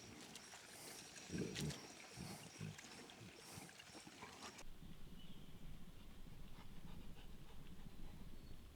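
A Cane Corso in a stream: faint running water with a few short low sounds and small splashes from the dog. After about four and a half seconds the water noise stops abruptly, leaving only a faint low rumble.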